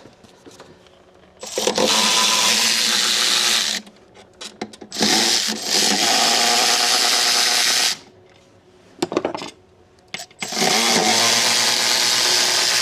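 Cordless power tool run in three bursts of two to three seconds each, spinning out the throttle body's bolts, with a few small clicks in the gaps.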